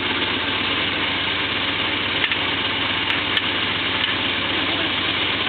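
Engine of a 1972 Ford pickup truck idling steadily.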